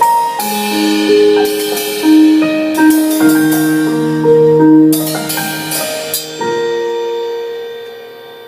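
Piano playing an instrumental intro: a slow line of held notes and chords, fading out near the end.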